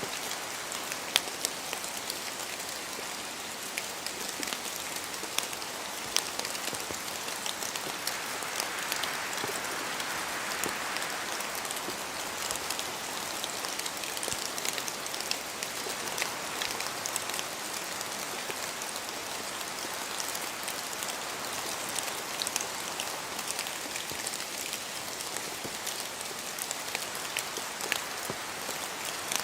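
Steady rain falling in a forest, a dense even hiss with many sharp drop hits scattered through it, swelling briefly about ten seconds in.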